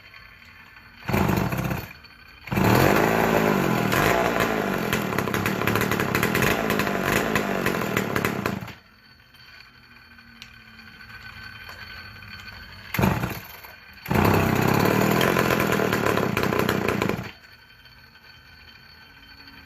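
McCulloch two-stroke chainsaw engine revved twice, each time for several seconds, with a short blip of throttle before each run and a low idle in between; the pitch rises and falls during the first run.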